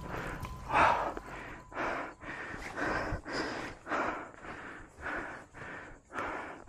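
Hiker panting hard while climbing a steep mountain trail, quick heavy breaths about two a second close to the chest-mounted microphone.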